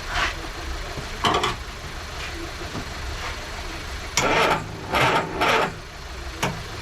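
Several short scrapes and rattles of tools and metal parts being worked on a car being stripped, over a steady low hum.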